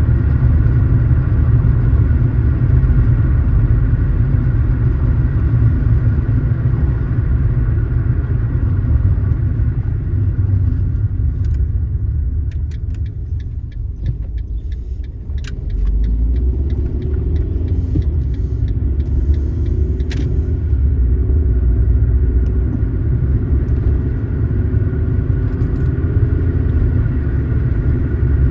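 Car driving, heard with a steady low rumble of engine and road noise. About halfway through it eases off and a series of sharp ticks comes through. Then the engine pulls away again with a slowly rising tone.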